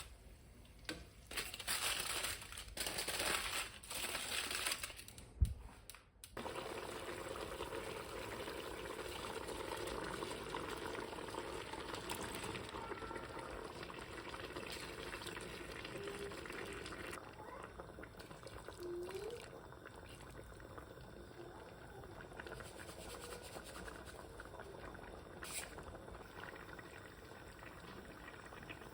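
Water in a kitchen: irregular splashing surges for the first six seconds, then a steady watery hiss that eases slightly past the middle.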